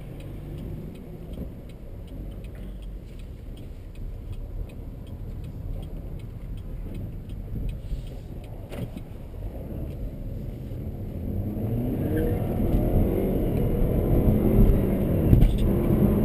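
Car on the move with its 2.0-litre turbo four-cylinder: a steady low road rumble while rolling off, then from about 11 seconds in the engine and road noise build as the car accelerates, loudest near the end.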